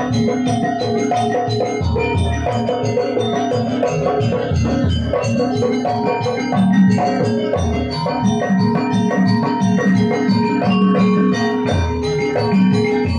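Gamelan music accompanying a dance: bronze metallophones strike a busy, repeating melody over recurring low drum strokes.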